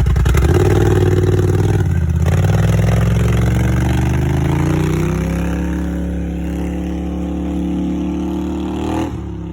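2010 Polaris Sportsman 850 ATV's twin-cylinder engine running through a cheap aftermarket exhaust with its baffle removed, being revved. It climbs from idle about half a second in, dips briefly, then rises again and holds at high revs before dropping back to idle near the end.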